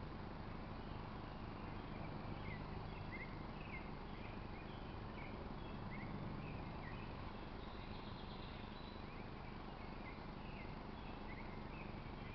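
Faint, scattered chirps of small birds over a steady outdoor background hiss and low hum.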